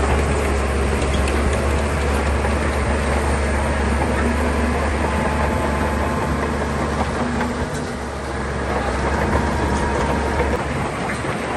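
Shantui crawler bulldozer's diesel engine running hard while it works, with a steady low drone that eases briefly about eight seconds in.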